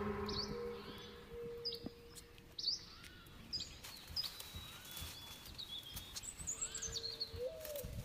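Forest birds calling: many short chirps and quick rising and falling whistles, with a low steady note coming and going, over the tail of fading music in the first two seconds.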